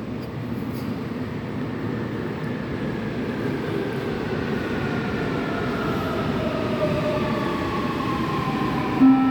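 Subway train slowing down: its motor whine falls steadily in pitch over a rumble that grows gradually louder, typical of a train braking into a station. Just before the end a chime of steady tones begins.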